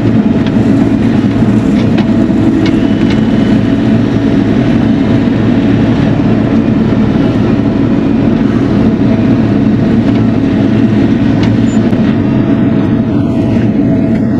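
Bobcat E42 mini excavator's diesel engine running steadily, with a few faint clicks early on.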